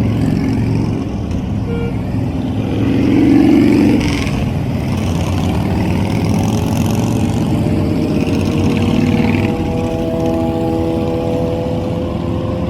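Motorcycle engines running in a group ride, with a louder swell about three seconds in and one engine's pitch rising near the end as it speeds up.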